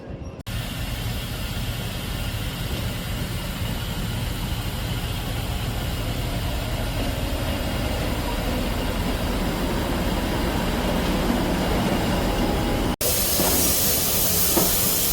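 Steam-hauled train under way, hauled by Stanier Mogul 13268: a steady rumble of running noise that builds slightly, with a cut about 13 seconds in to a hissier stretch.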